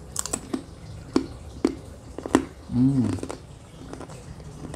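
A person biting into and chewing thin, crunchy fried meatball chips (salted basreng), with a series of sharp crunches in the first two and a half seconds and a short hummed "mm" about three seconds in.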